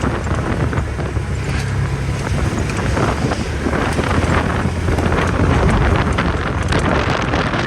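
A motor vehicle running steadily, with heavy wind buffeting the microphone.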